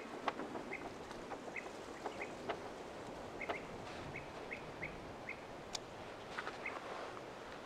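A bird giving short, separate call notes, repeated irregularly and at times about two a second, over a steady hiss of outdoor background noise with scattered light clicks.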